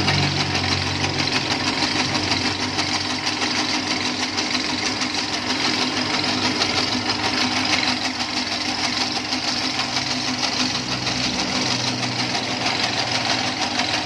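Motorised noodle machine running steadily, its electric drive motor and mechanism giving a constant busy whir.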